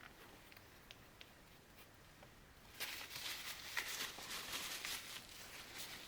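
A few faint ticks. Then, about three seconds in, a steady scratchy rustling starts: paper towel being rubbed and crumpled in the fingers while wiping away excess silicone sealant.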